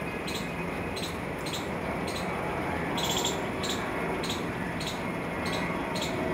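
A small bird chirping repeatedly, short high chirps about twice a second, over a steady background hum of street noise.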